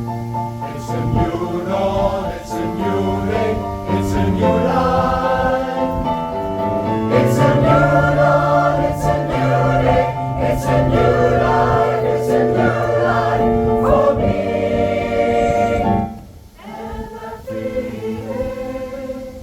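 A pop choir singing in harmony, holding long chords that shift together from one to the next. The singing drops back sharply about sixteen seconds in, and a softer passage follows.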